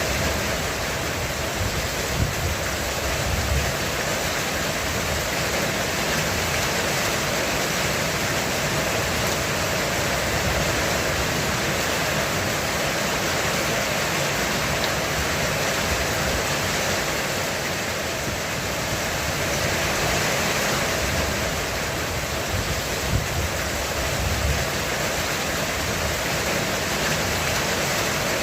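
Heavy rain pouring steadily on a roof, a dense even hiss, with low rumbles of distant thunder a couple of seconds in and again past the middle.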